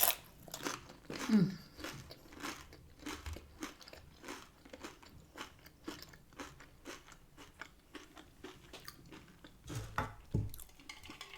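Close-up eating of crisp corn tortilla: a bite, then a long run of sharp crunches as it is chewed, with a few dull low thuds near the end.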